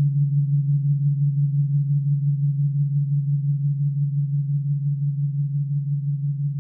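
Crystal singing bowl sounding one sustained low tone, with a wavering pulse several times a second, slowly fading.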